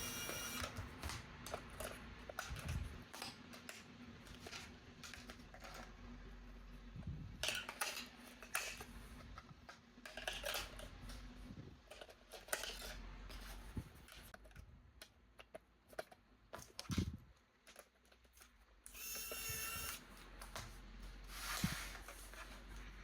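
Toy boxes, plastic packaging and toy parts being handled: scattered clicks, taps and rustles, with a brief high whine about 19 seconds in.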